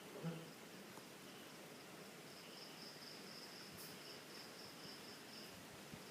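Crickets or other insects keep up a faint, high, steady trill that breaks off briefly a few times. A short, low voice-like sound comes just after the start and is the loudest moment.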